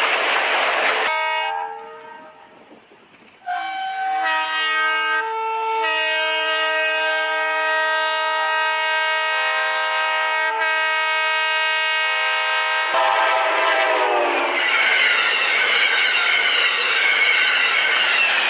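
A rushing train noise cuts off about a second in. After a short lull, a locomotive's multi-note air horn sounds a long chord. About thirteen seconds in, the horn's pitch slides down as the train passes, and the loud rush of the passing train follows.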